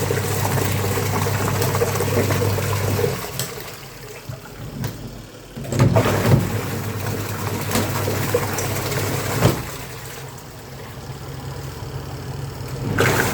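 Godrej washing machine's motor running with water churning in the tub, humming for a few seconds, pausing, then starting again, with a couple of knocks in between.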